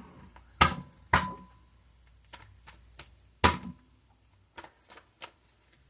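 Tarot cards being handled and shuffled on a table: a string of sharp, irregular clicks and taps, with three louder snaps in the first few seconds.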